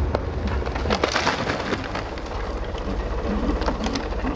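Wood cracking and snapping in a rapid run of sharp cracks, densest about a second in, over a steady low engine rumble: a dead tree used as a winch anchor giving way under the pull.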